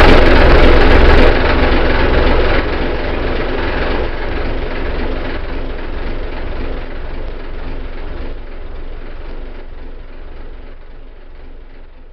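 Boat's engine running steadily with a low rumble, growing gradually quieter throughout.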